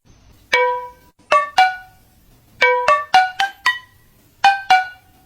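A short melody of about ten separate plucked or struck notes, each ringing briefly and fading fast, played in three quick groups.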